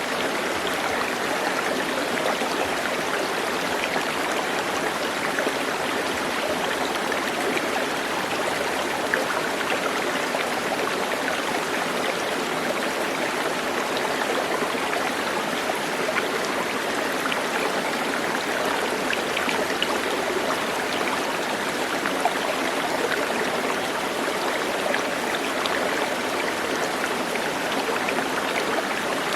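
Steady flowing water, an even rush with faint small splashes and no change in level.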